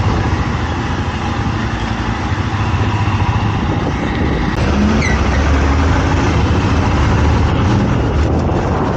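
Royal Enfield Himalayan motorcycle being ridden on the road, its single-cylinder engine running under a steady rush of ride noise, which grows a little louder about halfway through. A brief high chirp is heard about five seconds in.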